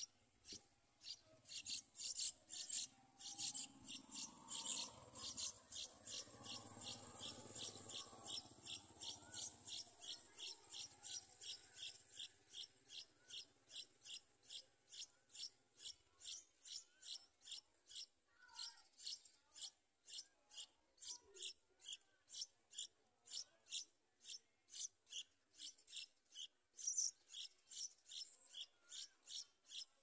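Yellow-vented bulbul nestlings begging at the nest: faint, high-pitched chirps repeated at a steady rate of about two a second.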